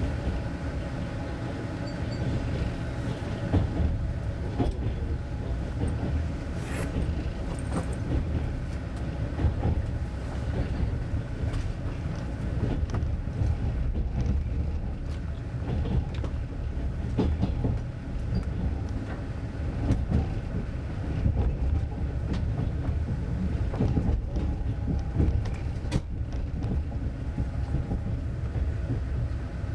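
Passenger train carriage running on rails, heard from inside the car: a steady low rumble with frequent irregular knocks and clicks from the wheels.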